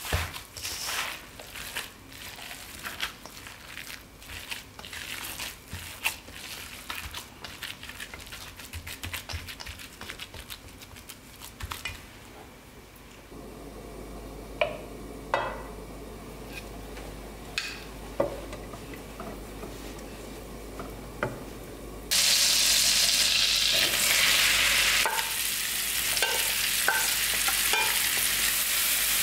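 Gloved hand kneading ground meat and breadcrumbs in a steel bowl, a fast run of wet squishing and crumbly crackling. Next come a few separate light taps and scrapes of a wooden spatula in a frying pan. About three-quarters of the way through, a loud, steady sizzle starts suddenly as sliced onions and mushrooms fry in melted butter; this is the loudest part.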